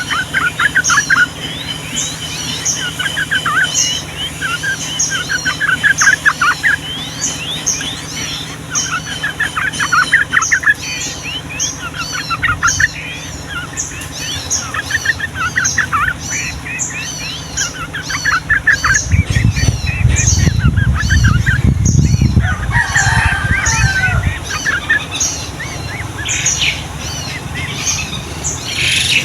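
Yellow-vented bulbul (trucukan) singing loudly in long, rapid rolling chattering phrases, repeated every second or two, over a steady run of short high chirps. A low rumbling noise rises for a few seconds past the middle.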